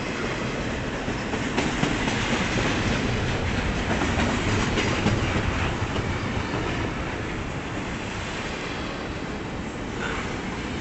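Double-stack intermodal freight cars rolling past on the rails, wheels clicking over rail joints in a steady clickety-clack. A little louder in the first half.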